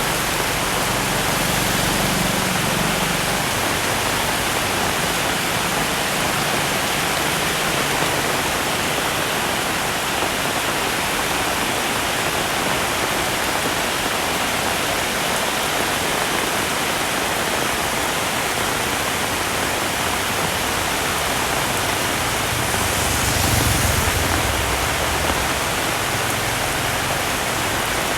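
Heavy rain falling, a loud, steady, dense hiss with no let-up. About three-quarters of the way through, a brief louder swell with a low rumble rises over it and fades within a couple of seconds.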